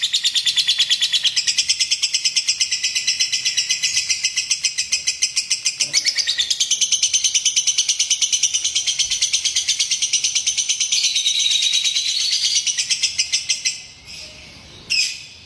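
Lovebird giving a long, rapid, unbroken chattering trill, about ten pulses a second, as a lure call for other lovebirds. It breaks off near the end, followed by a couple of short squawks.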